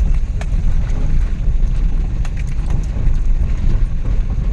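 Suzuki DA64V van under way, heard from inside the cab: a steady low rumble of road and engine noise from its rebuilt K6A three-cylinder engine, with scattered light clicks and rattles.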